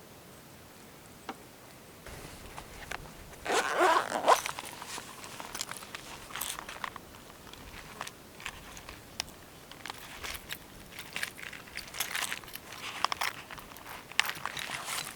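Close-up handling noises: irregular rustling, crinkling and crunching with scattered clicks, starting about two seconds in, loudest in a scraping burst around the fourth second.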